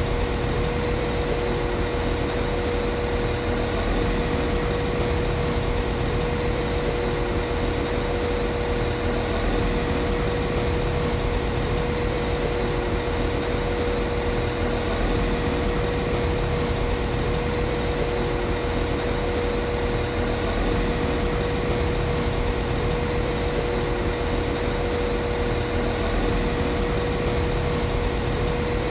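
Class 195 CAF Civity diesel multiple unit's underfloor diesel engine idling steadily, with a steady high tone running through it.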